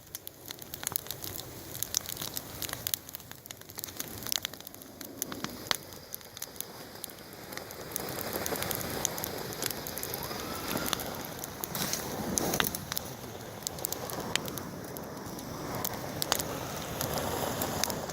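Bonfire crackling and popping with scattered sharp snaps, and a louder steady hiss joining about eight seconds in.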